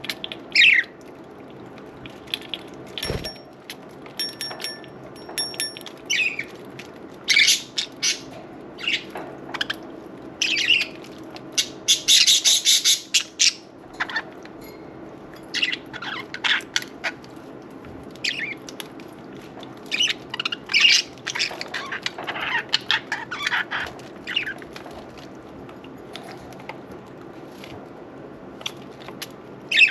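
Budgerigars chirping and squawking in short, scattered calls, with a burst of wing flapping about halfway through.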